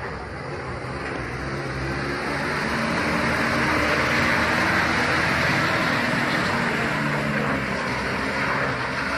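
Truck engine running under load, with a rushing noise that builds over the first few seconds and then holds steady.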